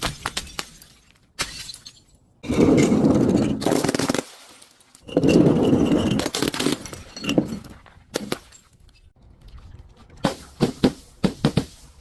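Glass being crushed and breaking: two long crunching, crackling bursts, followed by scattered clinks and then a quick run of sharp cracks near the end.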